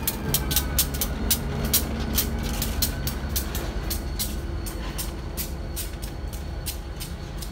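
A train passing with a steady low rumble, its wheels clicking sharply over the rail joints several times a second. A faint tone falls in pitch in the first second or so, and the whole sound fades slowly.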